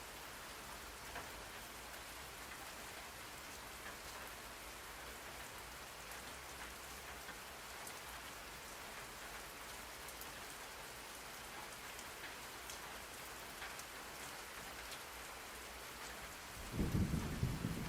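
Steady rain falling, an even hiss with scattered drop ticks. About a second before the end, a low rumble of thunder starts and becomes the loudest sound.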